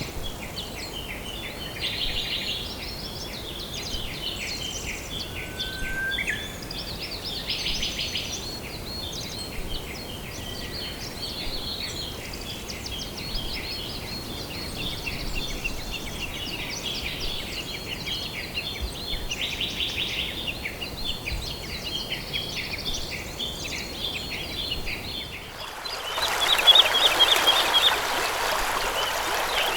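Many birds chirping and trilling together in a dense, overlapping chorus. About 26 seconds in, this gives way abruptly to the louder, steady rush of a stream, with bird chirps still heard over the water.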